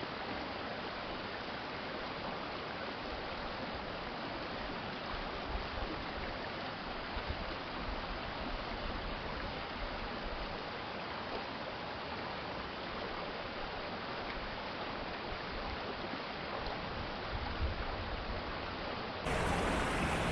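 City stream flowing, a steady rush of water. About a second before the end the sound jumps suddenly louder and brighter.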